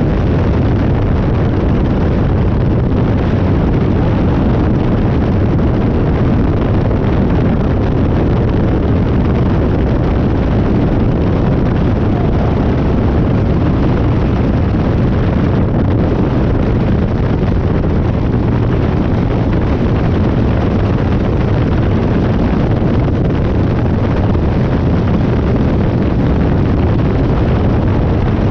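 Harley-Davidson Dyna V-twin running steadily at road speed, its engine and exhaust mixed with heavy wind noise on the microphone.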